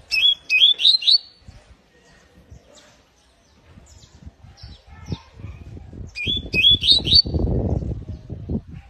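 Canary calling: two short phrases of four or five quick rising chirps, one at the start and another about six seconds in, with fainter chirps between. A low rumbling noise runs under the second half.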